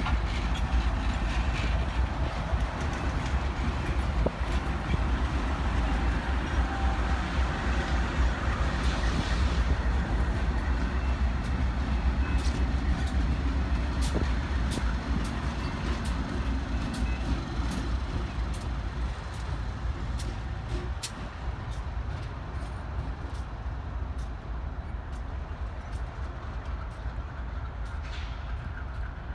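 Train rolling through a rail yard: a steady low rumble with many sharp clicks from the wheels and rails, easing off a little in the last third.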